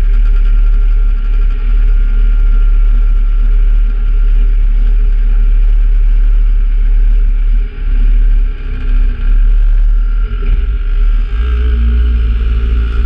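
Kawasaki Z750 motorcycle engine running steadily, with a heavy low rumble that grows stronger near the end.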